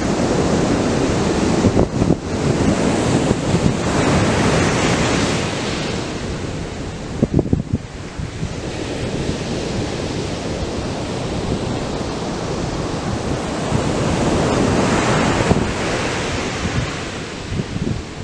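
Atlantic surf breaking and washing up the beach, a steady rush that swells and eases with each wave, with a lull about eight seconds in. Wind gusts buffet the microphone now and then.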